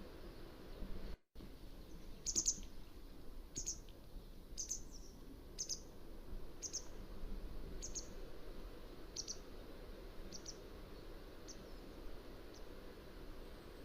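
Mountain wagtail giving a series of short, high calls about once a second, growing fainter toward the end, over a steady low background hiss. A brief gap in the sound about a second in.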